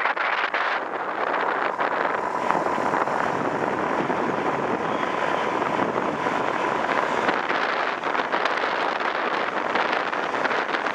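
Steady rushing noise of wind on the microphone mixed with ocean surf.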